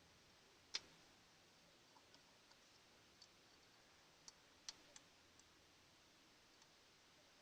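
Near silence broken by a few short, sharp clicks and taps, the sharpest about a second in and another about four and a half seconds in, from hand work on the car's carburettor.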